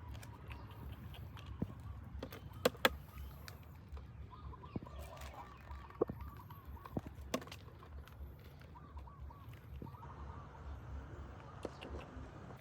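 Outdoor ambience: a steady low rumble, a few sharp clicks, and faint runs of short repeated bird calls.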